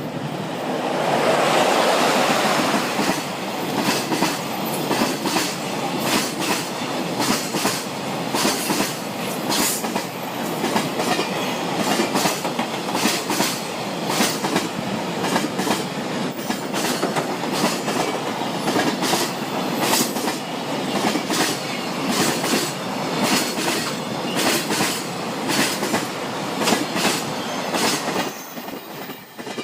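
EF66 electric locomotive passing close by at the head of a container freight train, followed by a long string of container wagons clattering over the rail joints in a steady clickety-clack. The clatter drops away near the end as the last wagon goes by.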